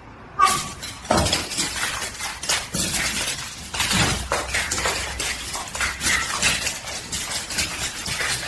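Rapid, irregular clattering and clinking of hard objects, a dense run of knocks and clinks.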